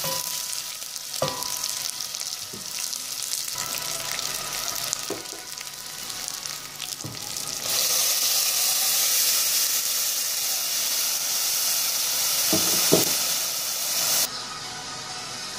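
Chopped onions and garlic sizzling as they are sautéed in a stainless steel pot, stirred with a spatula that knocks against the pot now and then. The sizzle grows louder about eight seconds in, as tomato sauce is poured onto the hot onions.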